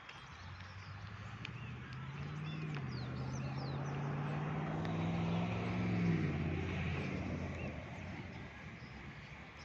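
A motor vehicle drives past, its engine growing louder for about six seconds and then dropping in pitch and fading as it goes by. Birds chirp faintly.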